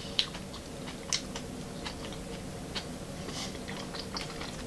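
Close-up chewing and mouth sounds of people eating: scattered small clicks and crunches, a dozen or so, with no steady rhythm.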